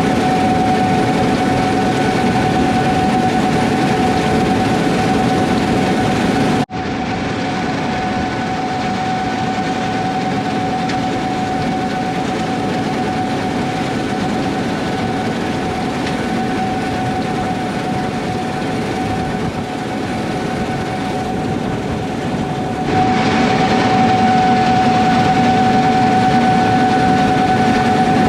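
Gleaner S78 combine harvesters running in the field: a steady machine drone with a high whine held on one pitch. The sound breaks off abruptly about seven seconds in, then comes back slightly quieter, and grows louder again about three-quarters of the way through.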